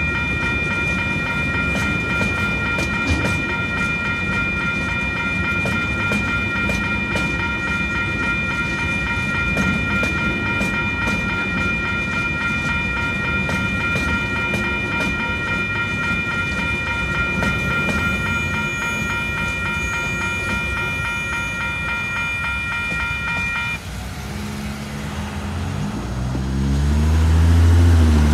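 Freight train's container wagons rolling past with a steady rumble and regular wheel clicks over the rail joints, while the level-crossing warning bell rings steadily. The bell cuts off about three-quarters of the way through, and near the end a car accelerates away close by, its engine rising in pitch and becoming the loudest sound.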